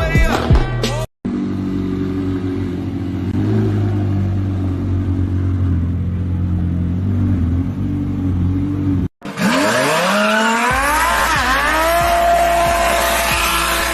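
Sports car engines in three short clips. First there are quick revs, then a steady low idle, then a run of accelerating revs whose pitch rises, dips and settles into a held note. The clips are separated by two abrupt cuts, about a second in and about nine seconds in.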